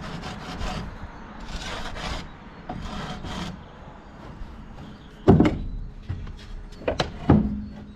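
Quick rasping strokes rubbing the freshly snapped edge of a cement board strip, followed by a few sharp knocks.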